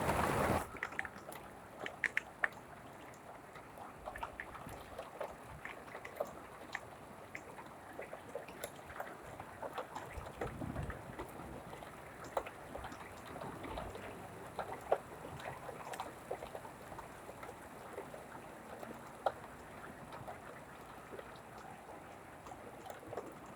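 Rain falling steadily, with many scattered ticks of single drops landing. A brief low rumble comes about ten seconds in.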